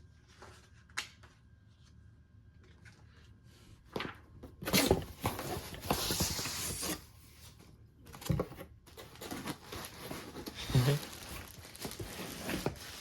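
Packing material from a ceiling fan box being handled and torn open: a few light clicks and knocks, then bursts of tearing and crinkling from about four seconds in.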